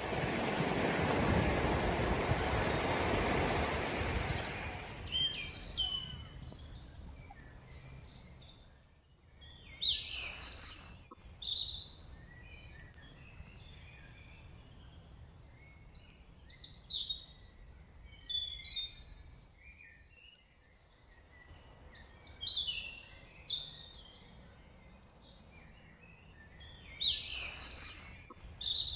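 A rushing noise for the first four seconds or so, then small birds singing outdoors: short bursts of high chirps and whistles that come in clusters about every five or six seconds, with faint background noise between them.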